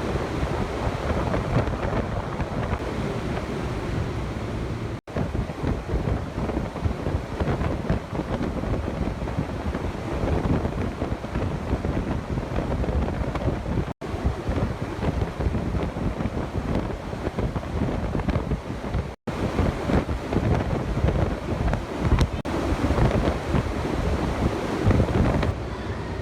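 Strong wind of around 25 metres per second buffeting the microphone in gusts, a heavy rumbling rush, with a few very short silent gaps where the clip is cut.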